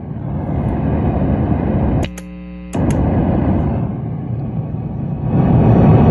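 Faulty Bogner Ecstasy Red overdrive pedal producing loud crackling, rumbling noise through a guitar amp: a fault the owner puts down to the pedal's internal hardware, since it runs on a 9V battery. About two seconds in, a click cuts the noise to a steady amp hum for under a second, then a second click brings it back, and it grows louder near the end.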